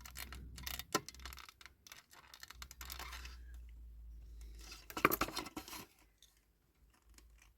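Clicks, taps and scrapes of small plastic and metal parts being handled and worked loose on a 1/18 scale diecast model car during disassembly, with a louder scraping sound about five seconds in.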